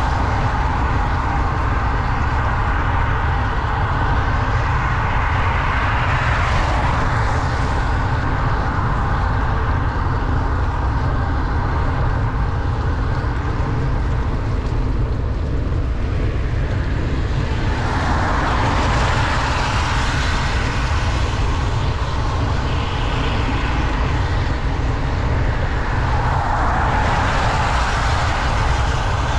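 Steady wind rumble on the microphone of a bicycle descending fast in pouring rain, over the hiss of tyres on the wet road. The hiss swells three times: about a fifth of the way in, past halfway, and near the end.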